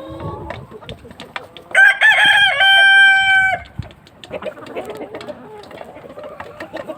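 A rooster crows once, about two seconds in: a loud call of under two seconds that wavers at first, then holds a steady note before cutting off. Around it, chickens cluck amid scattered clicks and knocks.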